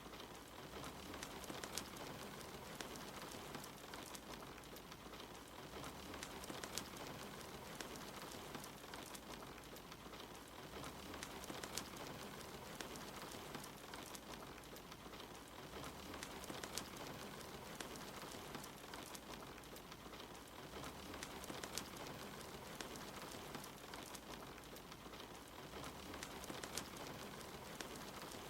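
Steady rain hiss mixed with the scattered sharp pops and crackles of a wood fire burning in a fireplace.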